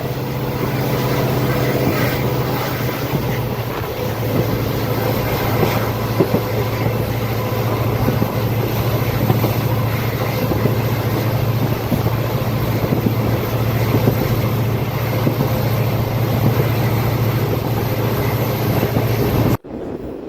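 Train running at speed heard from on board, the WDP4D diesel locomotive's EMD 16-cylinder two-stroke engine humming steadily under the clatter of wheels over the track and rushing air. It cuts off abruptly near the end.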